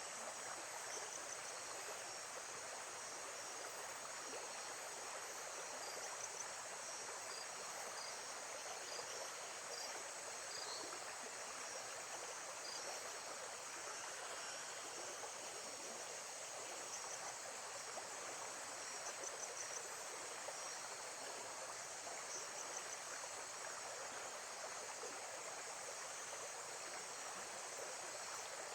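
Lakeside nature ambience: a steady wash of moving water, with insects chirping in short, repeated high pulses above it.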